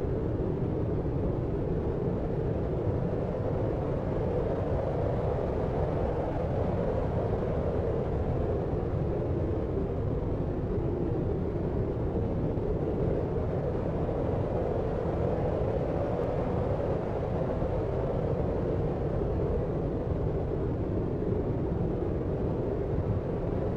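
Steady deep noise with most of its weight low down, a dark rumble-like hiss with no separate events or changes: a deep white-noise sleep track in the brown-noise style, with the feel of a distant city hum.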